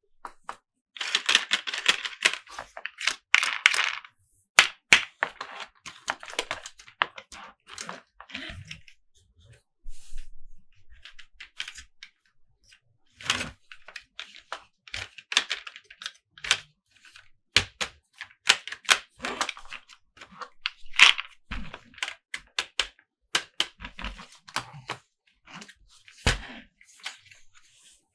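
Close-up handling of plastic toy trucks and packaging: irregular sharp clicks and taps mixed with bursts of scratching and rustling.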